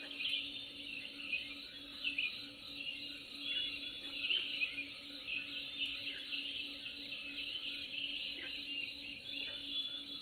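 Nature ambience of many birds chirping and calling at once, short overlapping chirps that run without a break, over a faint steady hum.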